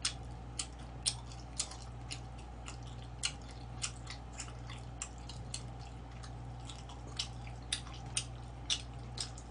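A man chewing chicken with his mouth near the microphone: soft, wet clicks and smacks about twice a second, over a faint steady electrical hum.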